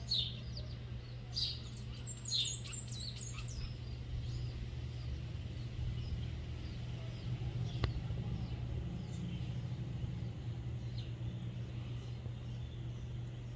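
Bird chirps in the first few seconds, with a rapid high-pitched twittering about two to three seconds in, then a steady low hum and a single click about eight seconds in.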